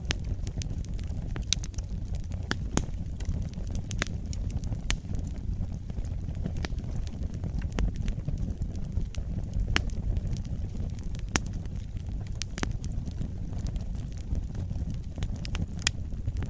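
Fire burning in a fireplace: a steady low rumble with irregular sharp crackles and pops scattered throughout.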